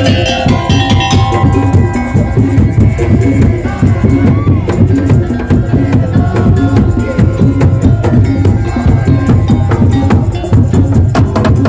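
Madurese daul (tong-tong) percussion music: drums and wooden slit drums beating a fast, steady rhythm, with a melodic line over it that is stronger in the first second or so.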